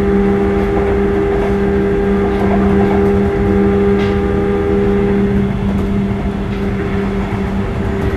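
Sotetsu 8000 series electric train with Hitachi IGBT-VVVF drive running at steady speed, heard on board: a continuous rumble of wheels on rail with steady humming tones.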